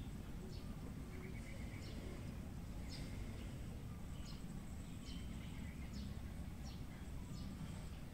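Birds chirping: short high chirps that drop in pitch, repeating about once a second, with a couple of quick trills, over a steady low rumble of outdoor background noise.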